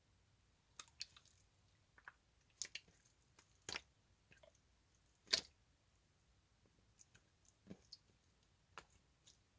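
Slime being squeezed and pressed by hand, giving scattered wet clicks and pops, the loudest about five seconds in.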